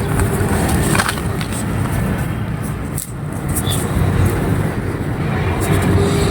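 Dry, dusty clay crumbling and crunching: a dense, continuous gritty crunch with a few sharper cracks.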